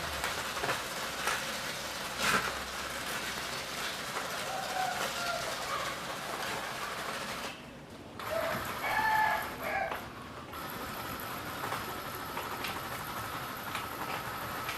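Small electric motor and gears of an RC tractor running with a steady whir and a few clicks, a thin steady whine joining about two-thirds of the way through. A few short chirps, like birds, sound in the middle.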